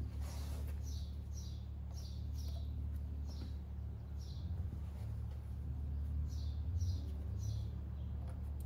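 A small bird chirping over and over in short, high, falling chirps, mostly in quick pairs, above a steady low hum.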